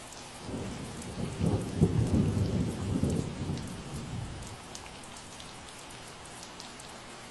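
Steady rain with scattered individual drops, and a low roll of thunder that builds about half a second in, is loudest around two to three seconds and fades away by about four and a half seconds.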